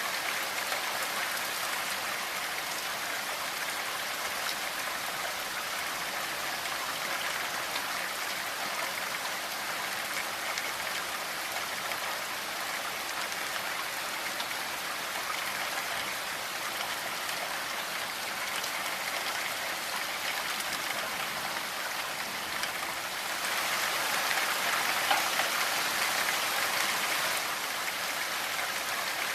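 Steady rainfall: a dense, even hiss of drops, growing a little louder for a few seconds near the end.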